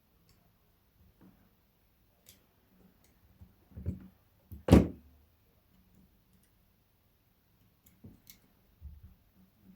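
Scattered small clicks and taps of phone parts and tools being handled on a workbench, with a dull thud and then a sharper, louder knock around four to five seconds in.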